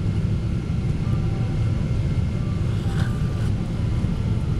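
Steady low rumble of a Boeing 777-200's engines and airflow heard from inside the passenger cabin.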